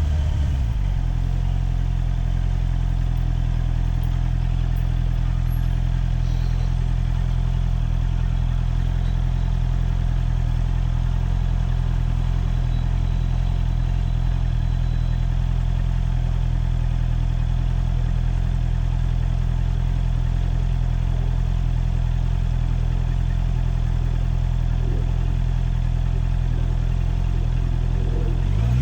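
Motorcycle engine idling steadily at a standstill, its revs settling down about a second in. Right at the end the revs rise again as the bike pulls away.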